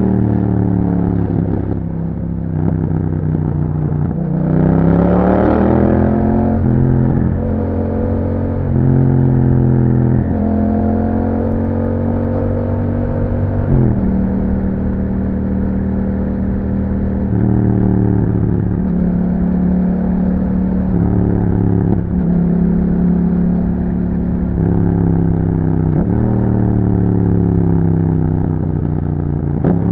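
2021 Yamaha MT-07's 689 cc parallel-twin engine through an Akrapovic exhaust, ridden through several accelerations: the pitch climbs and drops back at each gear change, with stretches of steady cruising in between. The strongest pull comes about four seconds in.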